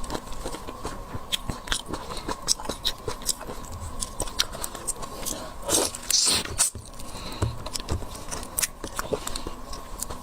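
Close-up eating sounds: seafood being bitten and chewed, with many sharp crunching clicks. A louder scrape or rustle comes about six seconds in.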